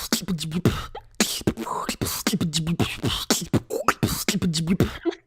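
Beatboxing: a fast, steady beat of sharp mouth-made kicks, snares and clicks over a hummed bass line that bends up and down in pitch.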